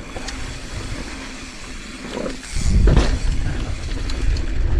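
Mountain bike riding fast on a loose dirt trail: wind rumbling on the microphone and tyres rolling, with a heavy thump about three seconds in, after which the rumble stays louder.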